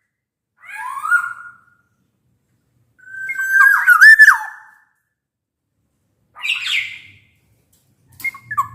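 Black-naped oriole singing: loud, fluty whistled phrases that glide up and down, three of them with pauses between, and a harsher, scratchier call near the end.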